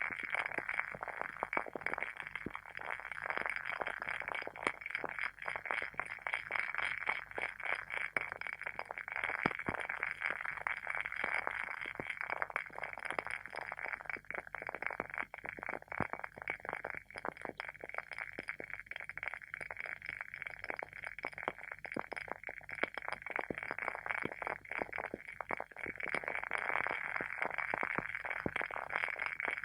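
Wooden wick of a WoodWick candle burning with a dense, steady crackle of many small pops.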